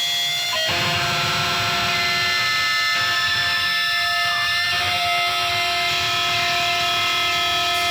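Electric guitar amplifier feedback: several steady high tones held together, with a short wavering in pitch around the middle.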